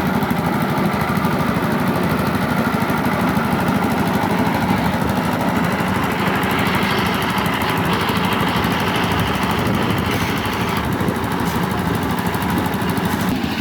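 Small engine running steadily, with a rapid low chugging.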